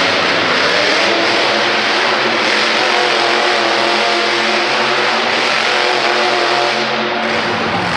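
Monster truck engine running loud and revving, a dense steady racket with a faint engine pitch beneath it.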